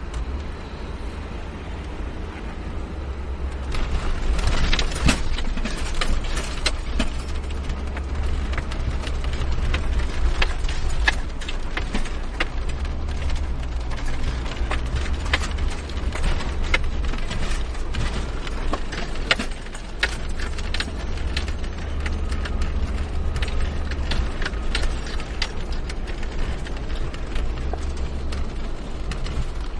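Car driving on a snow-covered road, heard from inside the cabin: a steady low rumble of engine and tyres, with many irregular clicks and knocks starting about four seconds in.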